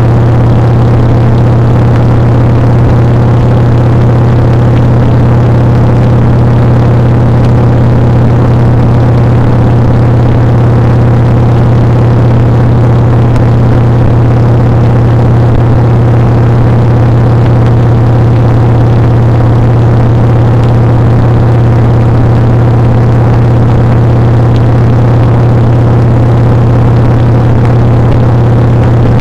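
Motorcycle engine running at a steady speed: a loud, low drone that holds one pitch, with no revving or gear changes.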